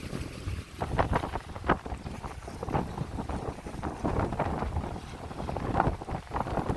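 Strong gusty wind buffeting the microphone, a steady low rumble broken by many irregular short bursts of rushing noise.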